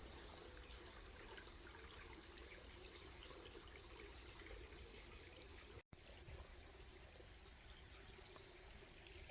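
Near silence: faint outdoor ambience with a faint, steady trickle of water. It cuts out for an instant just under six seconds in.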